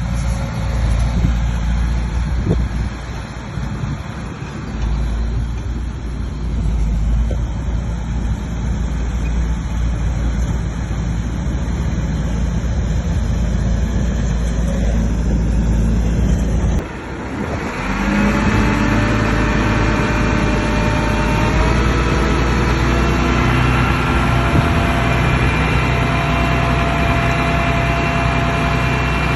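Diesel engine of heavy earthmoving machinery running with a heavy low rumble. About seventeen seconds in it drops away for a moment, then carries on as a steadier, more even engine hum.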